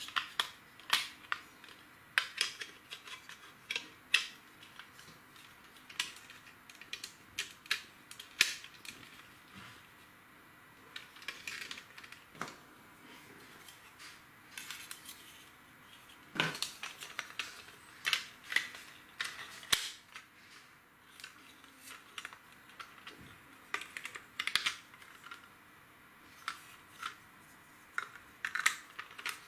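LEGO plastic bricks clicking and clattering as they are handled and fitted together: a stream of irregular sharp clicks, sometimes several a second, with short pauses between.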